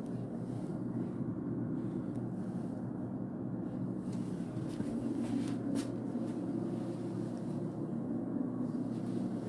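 Steady low mechanical hum and rush, with a single sharp click a little before six seconds in.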